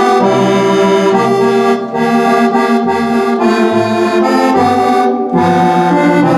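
Roland FR-8X digital accordion on a Cordovox-style patch, playing a tune in musette tuning with the organ voice sounding underneath, sustained chords over a bass that alternates in a steady rhythm.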